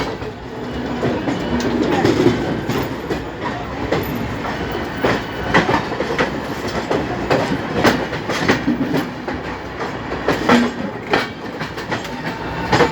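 Indian Railways passenger coaches rolling slowly, their wheels clicking and clattering irregularly over rail joints, over a steady rumble.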